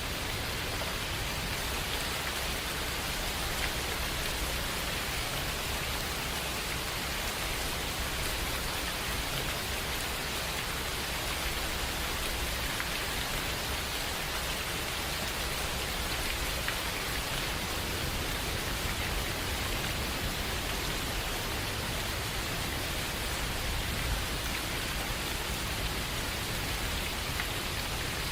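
Steady rain falling, an even unbroken hiss of drops on surfaces that neither builds nor eases.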